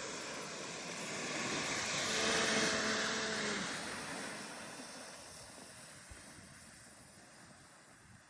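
Rushing, scraping noise of sliding down loose volcanic gravel on Cerro Negro's slope, swelling to a peak about two to three seconds in and then fading away. A short steady tone is held briefly near the peak.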